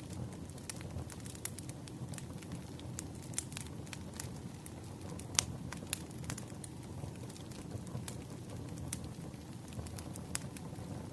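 Wood fire crackling: irregular sharp pops and snaps over a steady low rumble of burning logs, with a couple of louder pops about halfway through.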